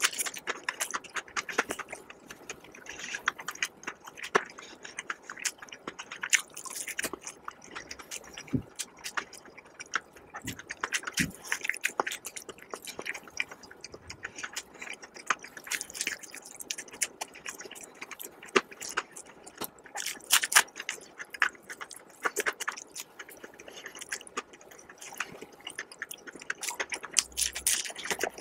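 Close-miked chewing and biting of crispy fried chicken: a dense, irregular run of sharp crunching crackles from the fried breading.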